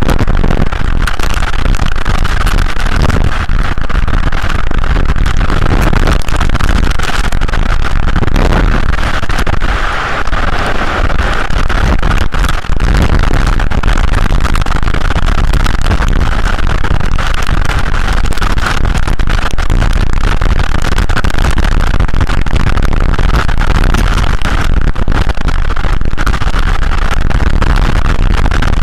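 Loud, continuous storm noise of wind and rain, a deep rumble with constant crackling on the microphone.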